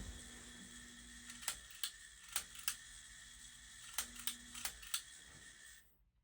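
Faint hum of a 1994 Concord Builder ceiling fan motor running without its blades, with a few scattered sharp clicks: the noise the owner expects to go away with use. The sound drops away abruptly near the end.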